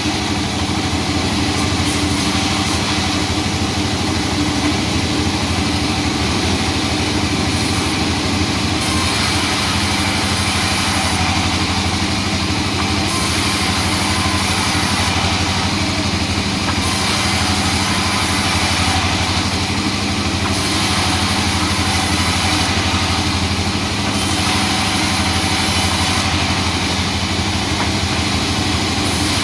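Sawmill machinery running steadily: a constant engine drone with no pauses, its high hiss rising and falling every few seconds.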